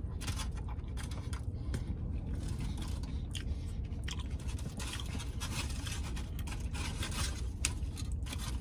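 Close-up chewing of a mouthful of burrito, with many short wet clicks and crackles, over a low steady hum.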